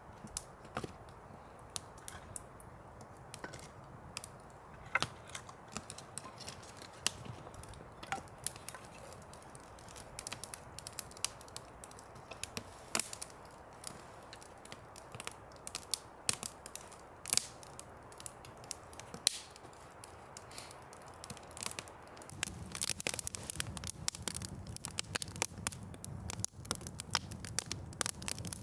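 Rain falling, with irregular drops tapping sharply on a nearby surface over a steady hiss; the taps grow denser and heavier near the end.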